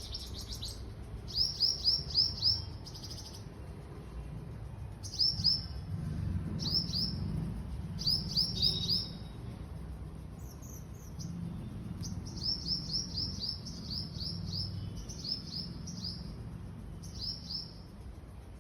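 A small bird chirping in repeated short phrases, each a quick run of four to six high, downward-sliding notes, with pauses between phrases. A low, steady rumble runs underneath.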